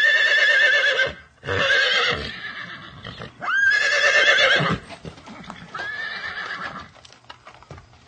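Horse whinnying: a run of loud calls with a quavering pitch over the first five seconds, broken by short gaps, then a fainter call about six seconds in.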